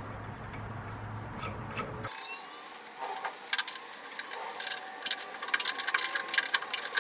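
Rapid ratcheting clicks from a hand tool fastening the new rubber feet onto the pressure washer, growing denser and louder from about five seconds in. Before that, about two seconds in, a low hum ends abruptly.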